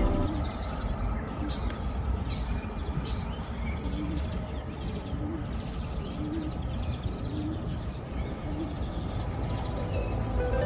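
Birds chirping: many short, high, quick calls repeating one after another over a steady background hiss.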